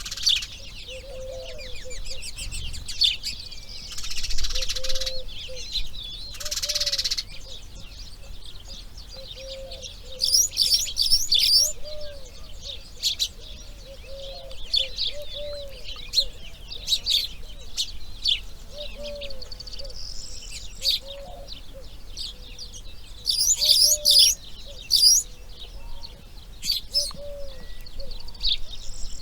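Wild birds calling: clusters of high chirps over a low call repeated about every second or two. Two short rustling bursts come a few seconds in.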